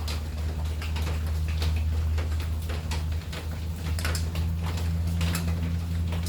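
Rain dripping and tapping irregularly on hard surfaces, a few sharp taps a second, over a steady low hum.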